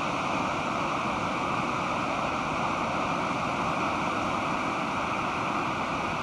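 Pacific Ocean surf: a steady wash of breaking waves with no distinct single break standing out.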